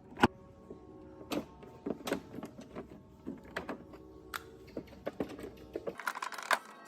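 Hard parts being handled and worked on: a series of irregular sharp clicks and taps, several leaving a brief ringing tone. About six seconds in, the low background hum drops out and the taps come thicker and louder.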